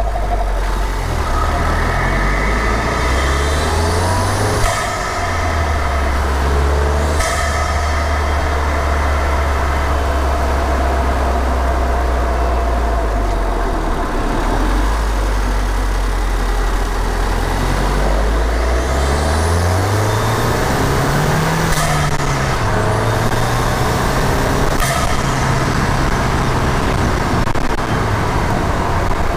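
Ford Fiesta ST's turbocharged engine heard from inside the engine bay, revving up under load with a high whine that climbs with the revs. The blow-off valve vents with a sharp whoosh three times as the throttle closes.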